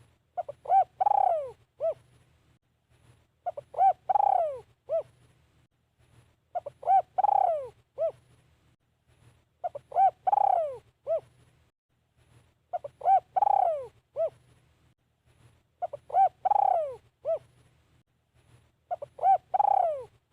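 Spotted dove cooing its song over and over, a phrase about every three seconds, each made of a few short coos around one longer falling coo. It is a caged decoy bird calling to lure wild doves.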